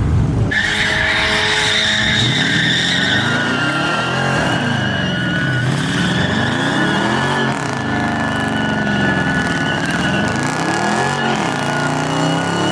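Pickup truck doing a burnout: the tyres squeal steadily, starting suddenly about half a second in, while the engine revs rise and fall again and again under the squeal.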